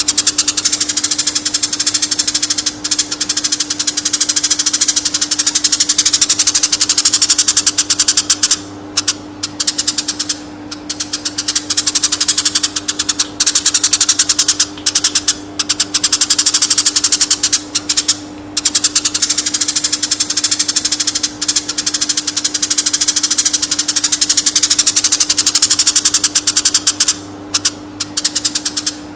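Eurasian tree sparrow chirping rapidly and nonstop, a dense chatter of short high chirps with a few brief breaks, over a steady low hum.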